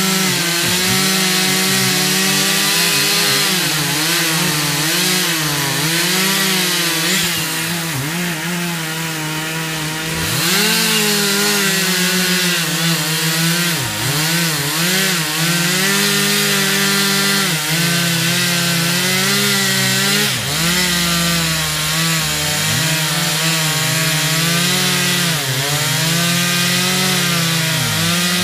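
Gas chainsaw running loudly, cutting wood, its engine pitch repeatedly dipping and rising.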